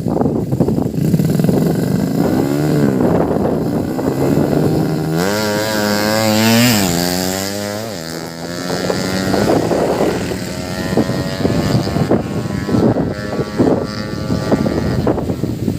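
Modified 115cc underbone drag bike engine running and being revved: a short blip about two and a half seconds in, then a bigger rev that climbs and falls back over about three seconds, followed by a steadier, held higher engine speed near the end.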